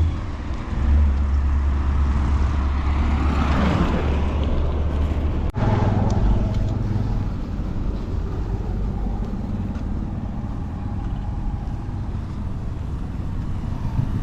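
Steady engine hum and road noise from a moving car. A strong low drone runs for the first few seconds and a swell of louder noise peaks about four seconds in, with a momentary dropout shortly after.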